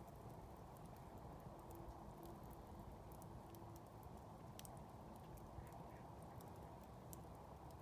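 Campfire burning quietly, with faint, irregular crackles and small pops from the wood over a low steady rumble.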